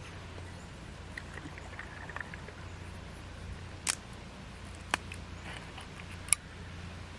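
Three sharp clicks, the last the loudest, over a steady low hum.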